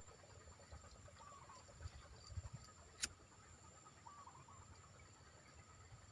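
Faint wild sounds: a steady high insect drone, with a few short falling bird chirps about a second and a half in and again about four seconds in. One sharp click about three seconds in.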